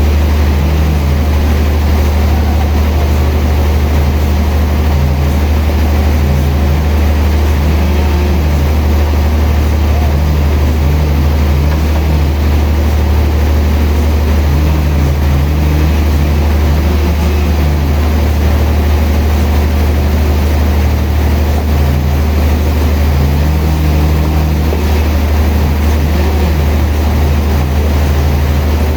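Large sawmill machinery running steadily: a loud, unbroken low drone with a wavering hum above it and a broad rushing noise.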